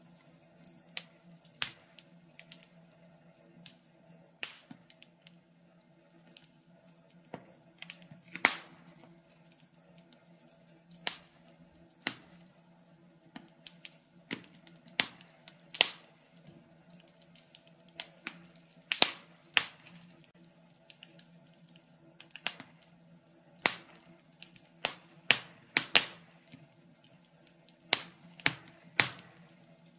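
Wood fire crackling in a fireplace: irregular sharp pops and snaps, sometimes a few in quick succession, over a faint steady low hum.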